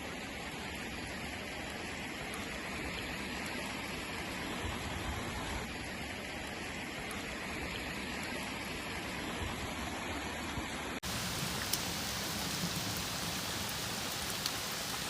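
Heavy rain falling in a steady hiss. About eleven seconds in it cuts abruptly to a second recording of rain with a brighter, fuller hiss.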